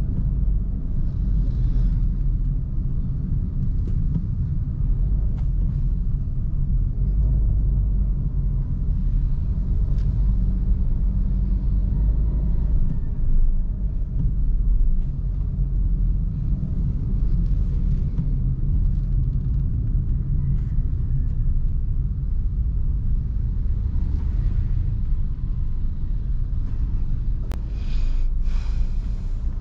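Vehicle engine and road noise during a drive, a steady low rumble. A few brief sharper noises come through near the end.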